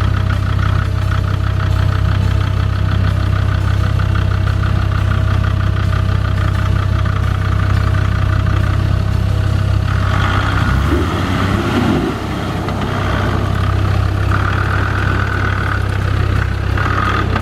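Land Rover Discovery 2's engine running at low revs as the 4WD crawls over a ditch bank. About ten seconds in, the sound turns rougher and noisier.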